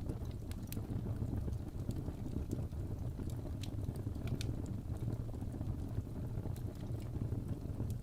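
Wood fire burning in a fireplace: a steady low rumble of flames, with about half a dozen sharp crackles and pops scattered through it.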